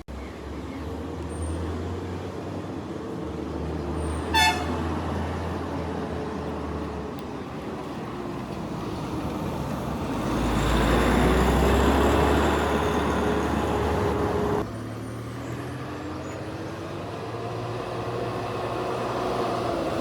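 Heavy diesel bus and truck engines running as they work through a sharp hairpin bend, with a short horn toot about four seconds in. A nearer engine grows louder around ten seconds in and cuts off suddenly near fifteen seconds.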